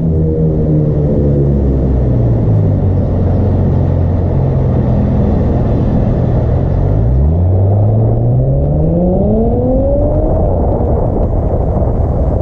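Audi S5 B9's turbocharged 3.0 V6 through an AWE Track exhaust, running at a steady low drone, then about seven seconds in the pitch climbs steadily for about three seconds as the car accelerates.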